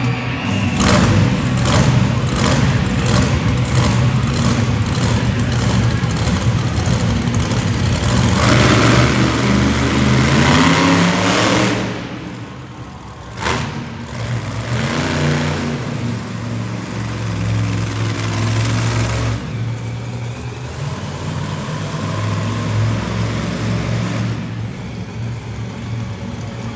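Monster truck engine revving hard, its pitch climbing for a couple of seconds about ten seconds in, then dropping away sharply and running on at a lower, steadier level.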